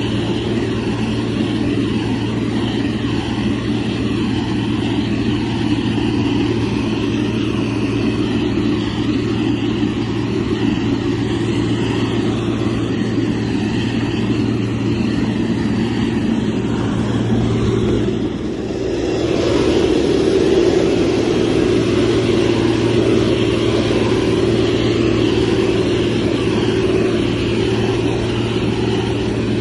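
Diesel engine of a motor grader running steadily under working load. It dips briefly near the two-thirds mark, then comes back louder and fuller.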